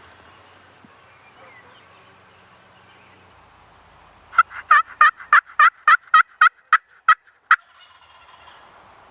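Turkey yelping: a series of about a dozen loud, evenly spaced yelps, roughly three a second. It starts about four seconds in and lasts about three seconds.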